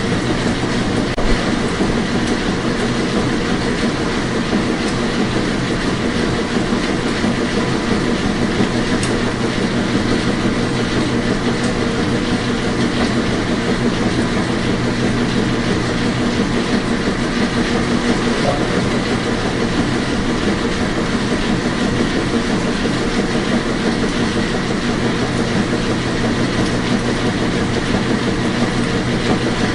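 Washing machine running steadily: a constant hum under a dense, even rattling noise.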